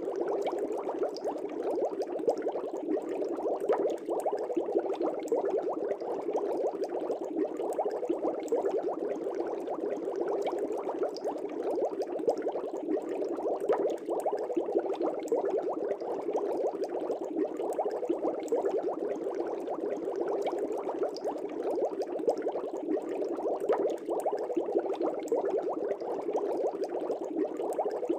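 Aquarium air bubbles rising and burbling at the water surface in a steady, dense stream.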